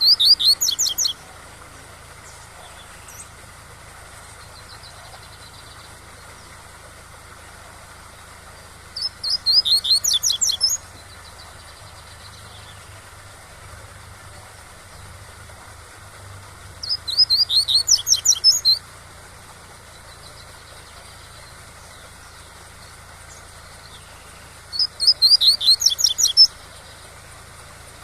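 Double-collared seedeater (coleiro) singing the tui-tui song: four phrases about eight seconds apart, each about two seconds of quick, repeated, high down-slurred notes. Under them runs a steady rush of waterfall sound.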